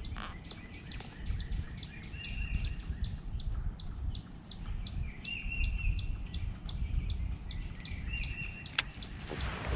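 Birds calling outdoors: a short wavering call that comes back about every three seconds among quick high chirps, over a low rumble. A single sharp click sounds near the end.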